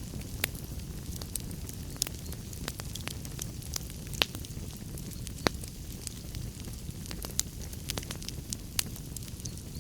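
Wood fire crackling in a fireplace: a steady low roar of flames with irregular sharp pops and snaps, a few louder ones standing out.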